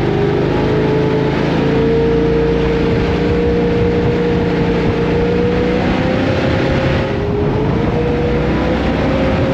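An engine running hard and continuously, its pitch climbing slowly with a brief dip about seven seconds in.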